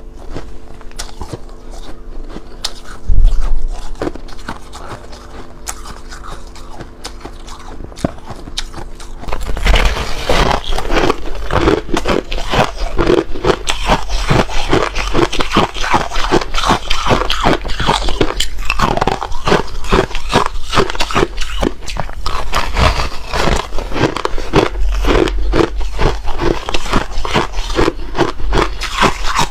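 Ice being bitten and chewed close to the microphone. At first there are scattered crackles over a low steady hum and one loud thump. From about a third of the way in it turns to dense, fast crunching.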